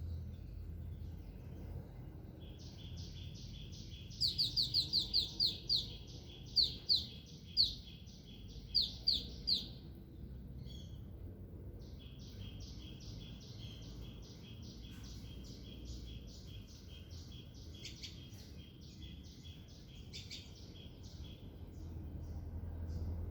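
Songbird calling in long runs of short, high chirps repeated about four a second, louder for a stretch in the first half, over a faint low hum.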